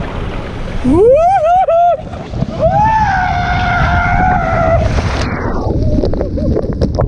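A man screaming as he rides a very steep body water slide, with water and wind rushing loudly over the camera mic. There is a short rising, wavering yell about a second in, then a long held scream. After about five seconds the rush turns duller.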